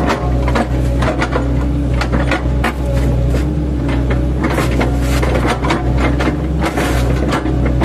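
Mini excavator (8-ton class) engine running steadily while its bucket, fitted with chipping blades, chops oil palm trunks, with many irregular knocks and cracks of wood breaking.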